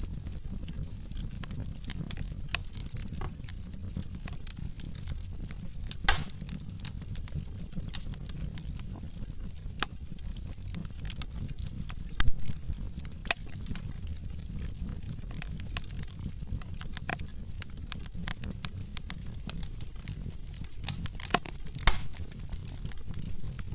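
Wood fire in a fireplace burning with a low steady rumble and irregular crackling, with a few louder sharp pops from the logs.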